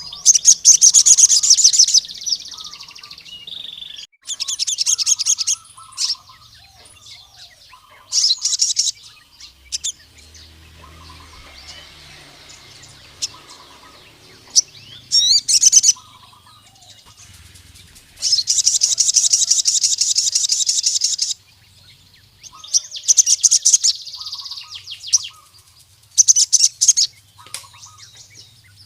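Male crimson sunbird (sogon) singing: a series of rapid, high-pitched trilled phrases, each half a second to about three seconds long, separated by short pauses. This is the vigorous song of a male in full voice, calling out to rival males.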